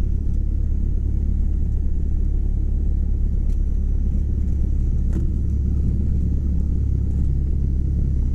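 Cessna 172 Skyhawk's piston engine and propeller running steadily, heard as a low, even drone inside the cabin.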